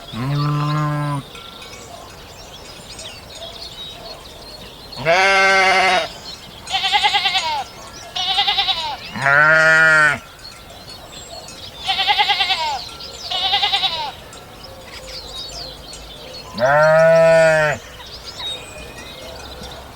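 Sheep bleating: about eight separate calls, some long and deep, others shorter, higher-pitched and wavering, with quiet gaps between them.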